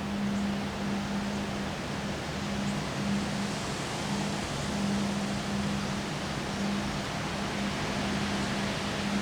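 Strong wind blowing steadily, a constant rushing hiss, with a low hum underneath that drops out and returns every second or so.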